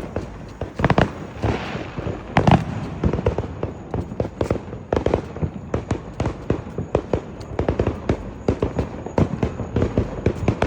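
Fireworks and firecrackers going off: a few loud bangs in the first three seconds, then a fast, irregular run of smaller pops.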